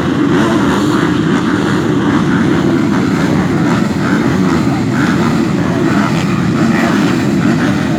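A pack of MX2 motocross bikes, 250 cc four-strokes, running together in a dense, steady engine drone.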